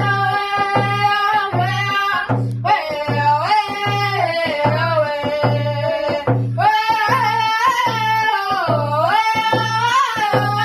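Powwow-style singing: a high voice in phrases that fall at their ends, over a steady, even drum beat of about one and a half strokes a second.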